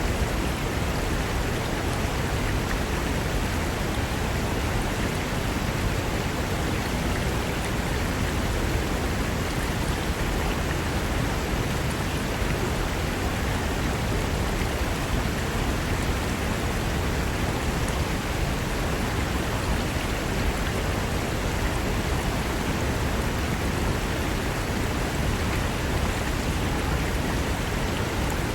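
Fast mountain river rushing over rocks, a steady full rush of white water with no change.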